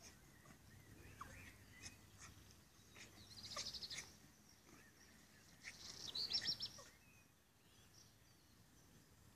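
A small songbird singing in the background: two short, fast trills of high repeated notes, about three and a half and six seconds in, with a few faint chirps between.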